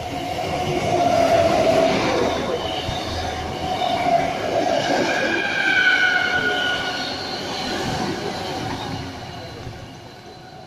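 Sydney Trains double-deck electric train passing close below, running noise building to a peak about a second in, then fading away near the end. High drawn-out tones ring out about halfway through, sliding slightly down in pitch.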